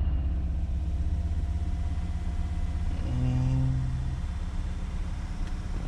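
2002 Volvo V70's 2.4-litre non-turbo five-cylinder petrol engine running at a steady, held engine speed, heard from inside the car. The engine has an intermittent misfire on cylinder 1, felt as a shake at this speed.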